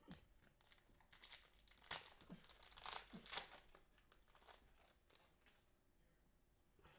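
Cellophane wrapper of a football card cello pack being torn open and crinkled: a dense crackling that swells about a second in and dies away after about four seconds.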